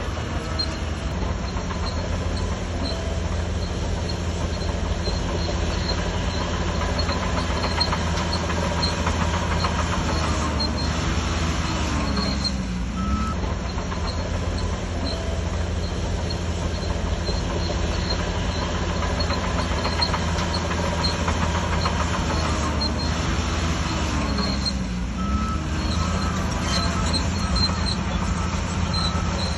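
Shantui DH17C3 crawler bulldozer's diesel engine running steadily under load while it works, with the clatter of its steel tracks. The engine note dips and recovers twice, about twelve and twenty-five seconds in, as it takes and sheds load.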